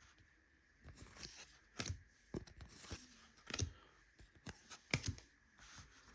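Glossy trading cards being handled and laid onto stacks on a table: a series of light, irregular taps and slides, one every half second to a second.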